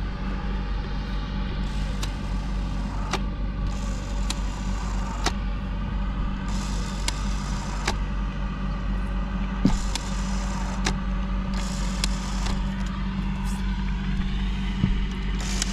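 Steady low machine hum with a few sharp clicks scattered through it.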